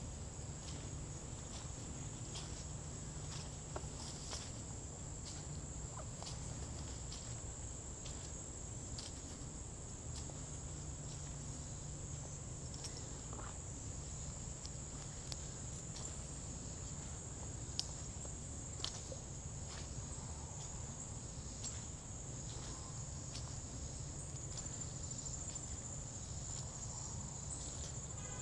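A steady high-pitched insect chorus, with footsteps on a forest trail as irregular light clicks.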